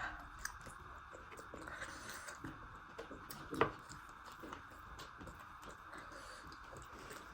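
A person chewing food with small wet mouth clicks, and one sharper click about three and a half seconds in, over a steady faint hiss.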